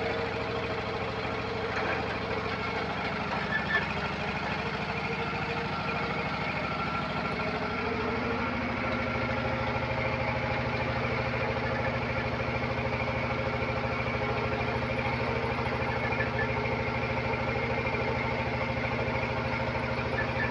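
Engine of a well-drilling machine running steadily, its note shifting to a different pitch about eight seconds in.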